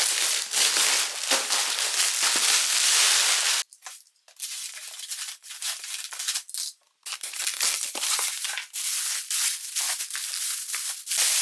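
Plastic packaging of a food delivery being torn open and unwrapped: a continuous loud crinkling for about three and a half seconds, a brief pause, then irregular rustling and crackling as the wrapping is handled.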